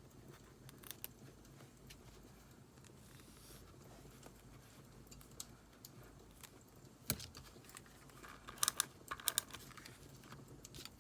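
Paper and stationery being handled while journaling: scattered small clicks and taps, one sharper click about seven seconds in and a short burst of papery rustling just after, over faint crackling of burning firewood.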